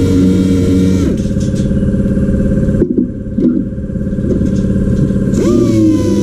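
A motor running with a steady whine, winding down about a second in and spinning back up near the end, its pitch overshooting and then settling.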